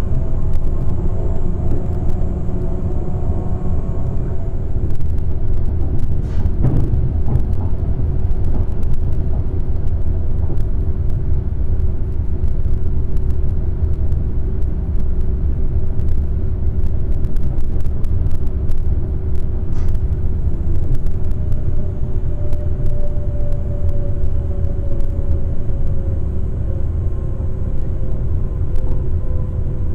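Z 20500 electric multiple unit running, heard aboard: a steady low rumble with whines from the motor car, one of which falls slowly in pitch in the second half, and scattered clicks. The uploader finds this motor car's noise strange.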